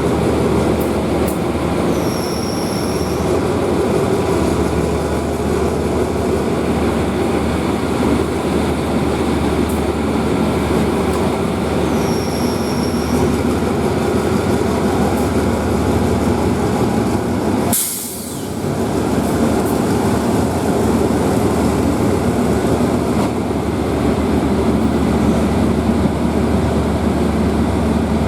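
Diesel-hauled train running at a station platform with a steady low engine hum. Short high beeps sound three times, and a brief sharp hiss comes about eighteen seconds in.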